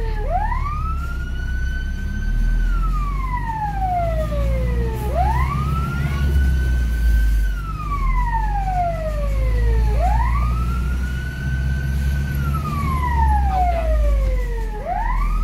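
Fire engine siren wailing: each cycle rises quickly, holds high for about a second and a half, then falls slowly, repeating about every five seconds. Under it runs a steady low rumble of the moving truck.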